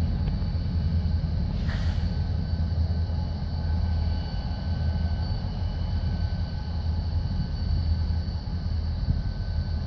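Union Pacific local freight train pulling away: a steady low rumble of its locomotives and rolling freight cars.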